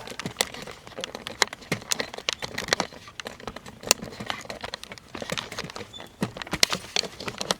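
Irregular light clicks and clinks of hand tools and small screws being handled.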